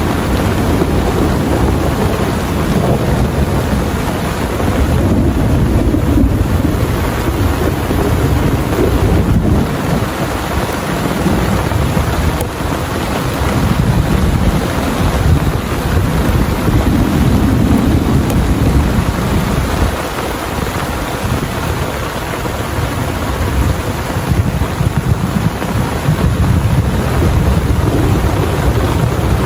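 Heavy rain pouring steadily, under a deep rumble that swells and eases several times.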